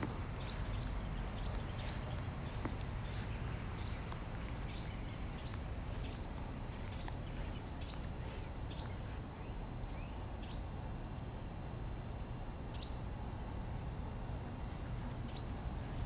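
Outdoor ambience: small birds chirping many times in short, sharp notes over a steady low rumble of wind on the microphone, with a faint high insect whine that comes and goes.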